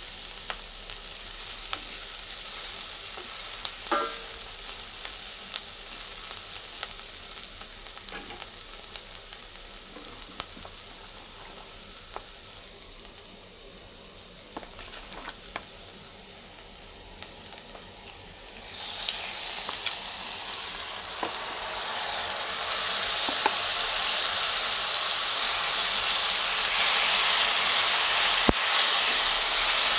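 Chopped onion sizzling in oil in a stainless steel pan, stirred with a wooden spoon that taps and scrapes now and then. About two-thirds of the way through the sizzle suddenly jumps much louder and keeps building as raw marinated chicken goes into the hot pan.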